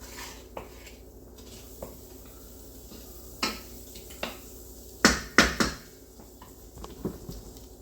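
Cookware and utensils knocking and clattering in the kitchen: a few scattered clacks, the loudest a quick cluster of three a little past halfway.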